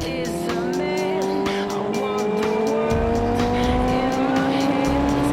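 Kawasaki ZX-6R 636's inline-four engine pulling steadily under way, its revs climbing slowly and evenly, with a song playing over it.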